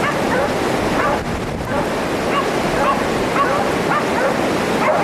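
Stray dogs barking over and over, two or three barks a second, as they bay at a wild boar. Steady rushing wind noise on the microphone underneath, with a brief lull about a second in.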